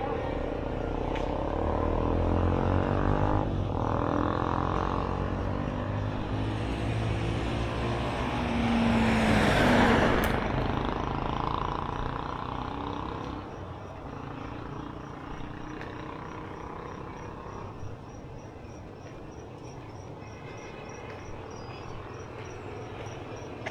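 Street traffic: a motor vehicle runs and passes close, swelling to its loudest about ten seconds in and cutting off sharply, then quieter street ambience with a faint rapid ticking.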